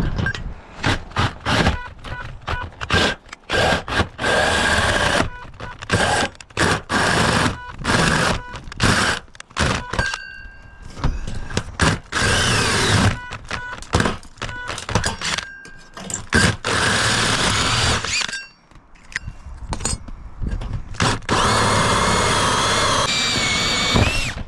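Power drill running in short bursts of a second or two, with a whining pitch, between many knocks and clanks of tools and parts.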